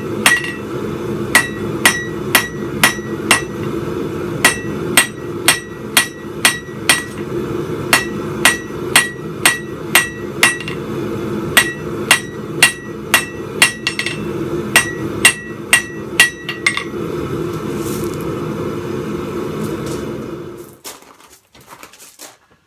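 Hammer striking steel on an anvil, drawing out the end of a bar of spike stock: runs of ringing blows about two a second, stopping about 17 seconds in. A steady low rush runs underneath and cuts off about 20 seconds in.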